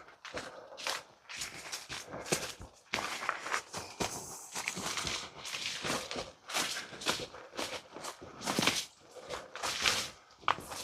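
A hiker's footsteps on a wet woodland trail, an uneven run of steps and scuffs every half-second or so, some heavier than others.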